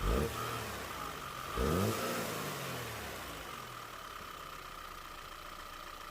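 Car petrol engine running after an ignition-coil replacement on cylinder 2, blipped up briefly twice in the first two seconds and then settling to a steady idle, running smoothly with no misfire.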